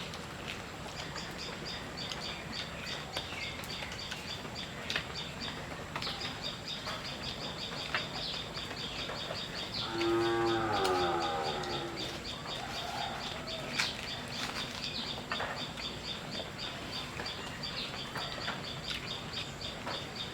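Birds chirping over and over, a cow lowing once for about a second around the middle, and scattered faint clicks.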